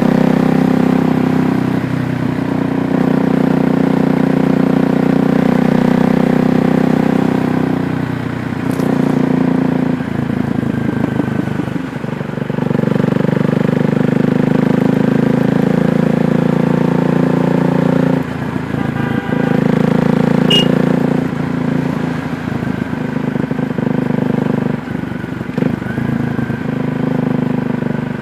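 KTM Duke 390's single-cylinder engine running steadily under way, its note dropping briefly a few times along the ride.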